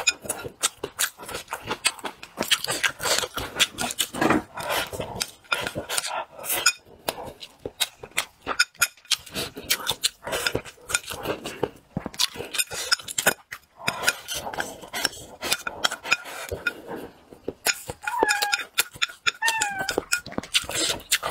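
Close-up mukbang eating sounds: loud chewing and lip smacking, with wooden chopsticks clicking against a bowl of fish and rice. Two brief high calls from an animal near the end.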